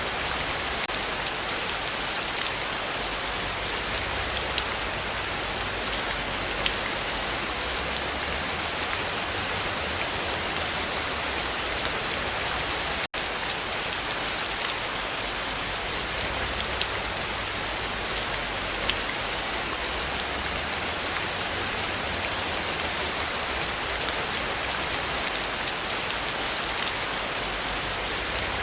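Heavy rain falling steadily: an even hiss scattered with the ticks of individual drops. The sound cuts out for an instant about halfway through.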